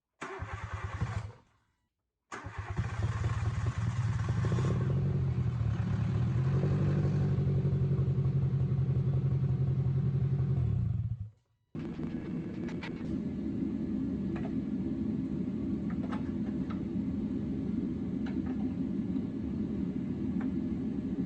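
Nissan Micra K12's 1.2 litre petrol engine running steadily. It comes in several edited segments and stops abruptly about eleven seconds in. It resumes shortly after with light ticks over the running.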